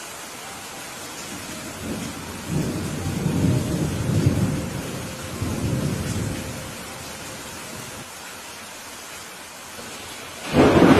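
Steady rain falling, with thunder: a low rolling rumble from about two seconds in that fades out after several seconds, then a louder, sharper thunderclap near the end.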